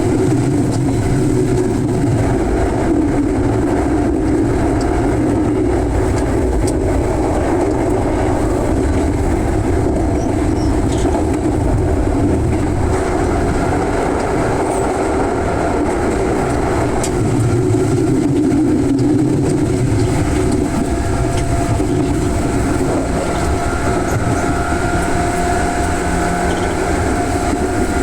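JR West Yamatoji Line local electric train running at speed: a steady rumble of wheels on rail, with faint whining tones that strengthen in the later part.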